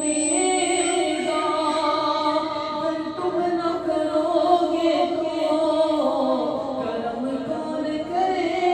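Unaccompanied singing of an Urdu devotional naat, in long drawn-out notes that slowly bend in pitch.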